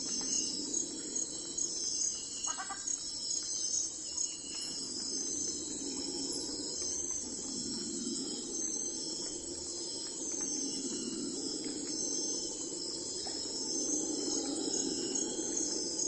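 Insects chirping in a steady, evenly repeating high pulse, over a low hum that slowly swells and fades.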